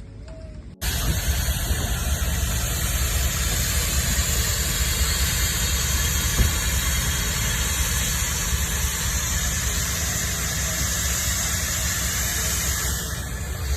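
Freight train running past at close range: a loud, steady low rumble with hiss that starts suddenly about a second in, and a single sharp knock about six seconds in.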